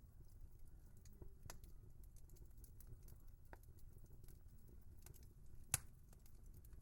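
Wood fire crackling: faint scattered snaps and ticks over a low rumble, with one sharp, louder pop near the end.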